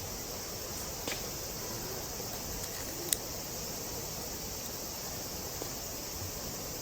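Steady chorus of insects chirring, with a small click about a second in and a sharper click about three seconds in.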